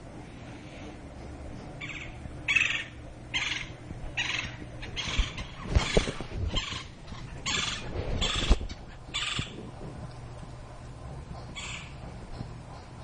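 Woodpecker giving a series of short, harsh, raspy calls, about one a second, then pausing before a last call near the end. A few dull low thumps come in the middle of the series.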